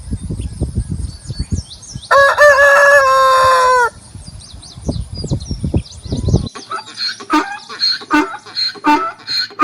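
A rooster crowing once, a long call of nearly two seconds that drops in pitch at the end, over low irregular thumping noise and faint high bird chirps. A light music beat, about two a second, starts near the end.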